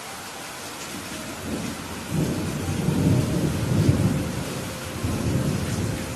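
Steady rain with a low roll of thunder that builds about a second and a half in, is loudest around the middle and dies away near the end.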